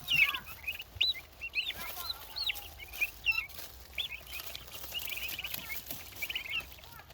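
Young turkey poults peeping, many short high rising-and-falling peeps overlapping, several a second.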